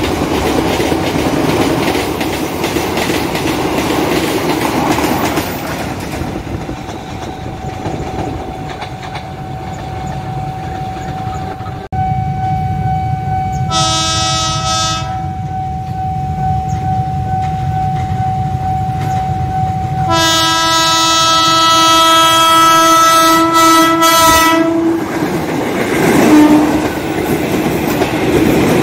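Passenger coaches rolling past with clickety-clack from the wheels. Then a JR 205 commuter electric train sounds its horn as it approaches, first a short blast and later one of about five seconds, and runs past.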